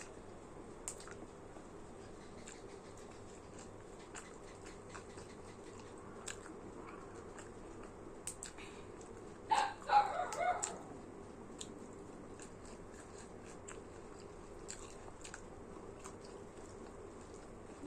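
Close-up eating sounds: small mouth clicks and smacks from chewing, scattered through. About nine and a half seconds in comes a louder, brief pitched cry lasting about a second.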